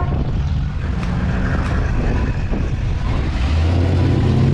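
Engines of cars and trucks running as they drive past in a slow procession. A deeper engine note grows louder about three and a half seconds in as another vehicle comes closer.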